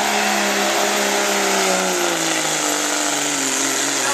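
Diesel pickup truck engine at full throttle pulling a weight sled, with a high steady turbo whine over it. About halfway through the engine's pitch starts sinking steadily as it bogs down under the sled's load.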